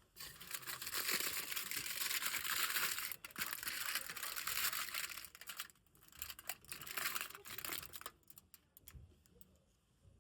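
Crinkling and rustling of wrapping being handled, dense for the first three seconds or so, then in shorter bursts that thin out near the end.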